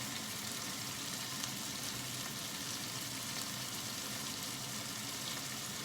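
Diced chicken breast and onion frying in olive oil in a pan, a steady sizzle.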